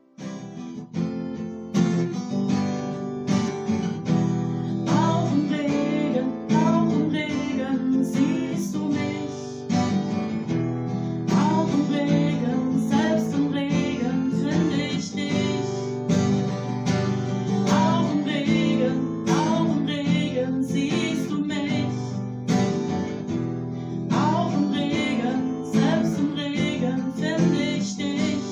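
Acoustic guitar strummed, playing chords as a song accompaniment.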